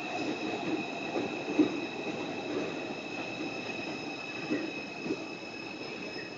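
New York City subway train running with a rumble and a steady high-pitched whine held throughout.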